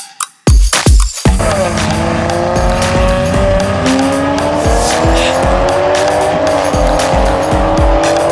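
Performance car engines at full throttle in a roll race, their pitch climbing steadily and dropping back at each upshift. They come in about a second in, over electronic dance music with a steady beat.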